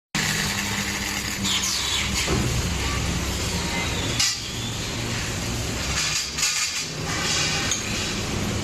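Flash butt welding machine running: a steady low electrical hum under a continuous hiss, with a few sharp clicks scattered through.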